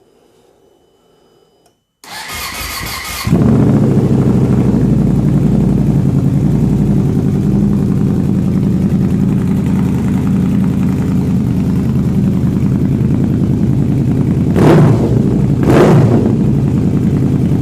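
Yamaha Gen 2 VMAX's V4 engine, through a newly fitted aftermarket Voodoo exhaust, cranked by the starter and catching about three seconds in. It then idles steadily, with two short revs near the end. The engine is still on its stock ECU map, not yet tuned to the exhaust.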